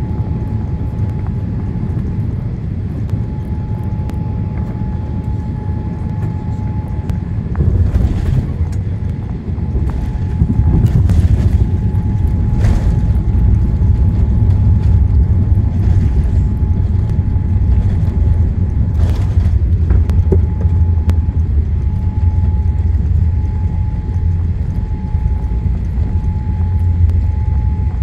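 Boeing 787-8 cabin noise during the landing: a steady rumble of engines and airflow, a few knocks about eight seconds in, then a louder, heavier rumble from about ten seconds in, as on touchdown and rollout.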